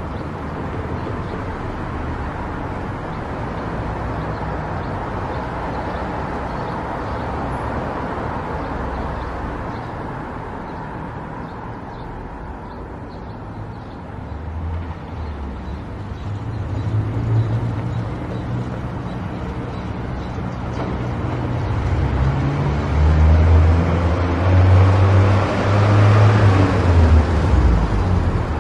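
Car on the move: steady road and engine noise with a low rumble, which swells louder in the last several seconds.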